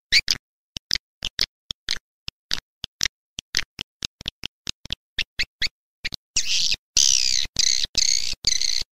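Swiftlet lure call played back as a recording. It starts as a run of short, sharp chirps, about three to four a second, with dead silence between them. From about six seconds in it turns into a denser run of longer twittering chirps.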